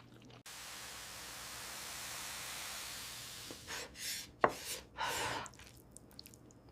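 A steady hiss starts abruptly and ends after about three seconds, followed by a few short breathy puffs.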